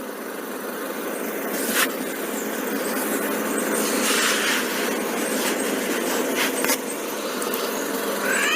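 Steady rushing background noise with a few sharp clicks, and a short squawk from a Jamaican Amazon parrot near the end.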